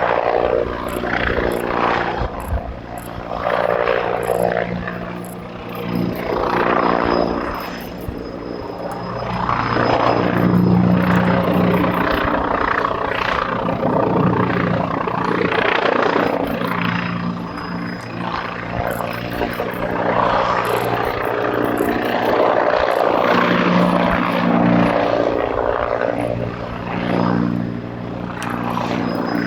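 AH-129D Mangusta attack helicopter flying a display: a steady low rotor and engine hum under a rushing noise that swells and fades several times as it manoeuvres, loudest around the middle and again in the second half.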